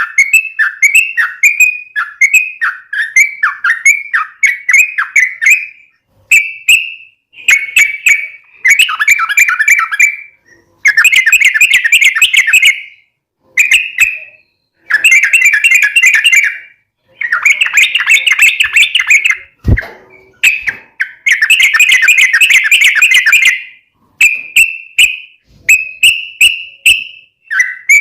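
Yellow-vented bulbul (trucukan) singing: short liquid phrases at first, then several long, rapid chattering runs of two to three seconds each, then short phrases again. This is the long, run-on 'gacor' song used as a lure to get other trucukan to answer.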